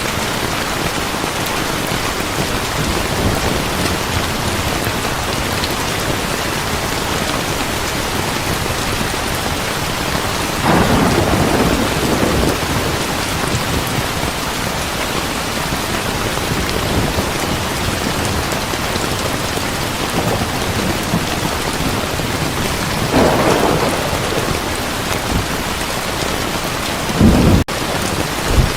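Heavy rain falling steadily, with thunder rumbling in three times: about ten seconds in, again a dozen seconds later, and a short, deep rumble near the end.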